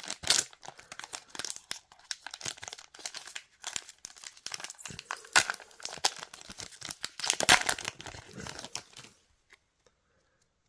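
Crinkling and tearing of a trading card booster pack wrapper being ripped open and handled: a run of crackly rustles with a couple of louder rips, stopping about nine seconds in.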